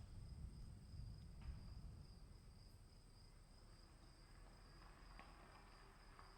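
Faint steady trill of crickets in a forest night ambience, with a low rumble underneath that fades after about two seconds.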